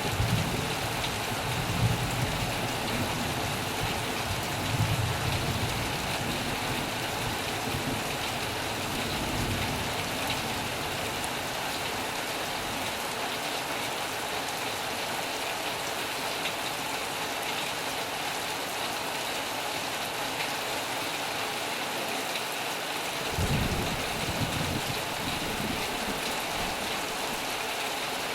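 Heavy rain pouring steadily on a metal roof, with low rolls of thunder rumbling through the first several seconds and again about two-thirds of the way through.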